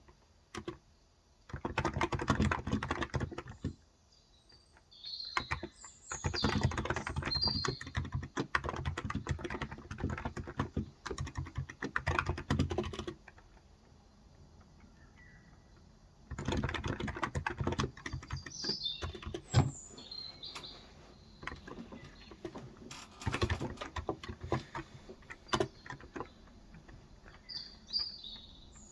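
Typing on a Cox Endeavor electro-capacitive tenkeyless keyboard with 35 g switches, in runs of a few seconds broken by pauses. Small birds chirp high and briefly now and then over the typing.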